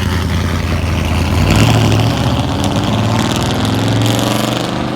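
Classic car engine running, then accelerating away, its pitch rising from about two seconds in.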